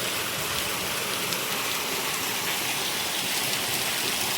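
Heavy monsoon rain falling steadily, a dense even hiss of drops hitting the ground and surfaces.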